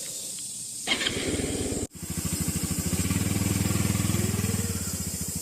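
Honda CT125 Hunter Cub's single-cylinder engine starting about a second in, then idling with an even, rapid putter.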